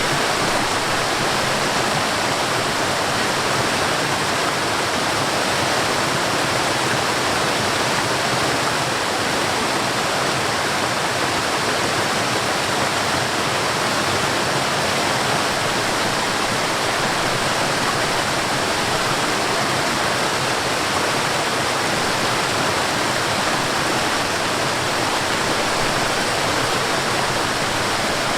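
Mountain stream and small waterfall: water rushing and splashing over rocks in a steady, even roar.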